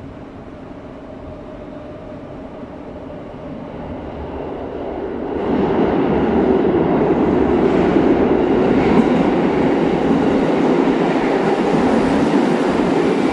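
Electric commuter train entering an underground station platform: the running rumble grows from the tunnel and about five seconds in becomes a loud, steady rush of wheel and rail noise with clickety-clack.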